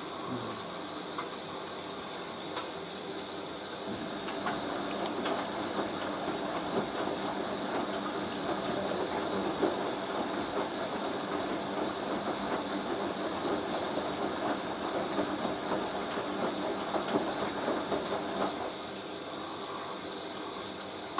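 Hoover A3060 Electronic 1100 washing machine tumbling its load in rinse water during the first rinse, a churning, sloshing sound with small knocks over a steady hiss. The churning eases off near the end as the rinse finishes.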